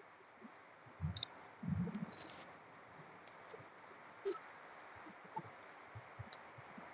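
Close-miked eating sounds: scattered sharp, wet mouth clicks and smacks of chewing, with a couple of soft low thumps about a second in.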